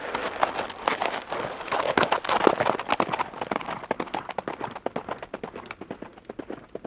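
Horses galloping: a rapid, dense run of hoofbeats, loudest in the first few seconds and fading toward the end as they move away.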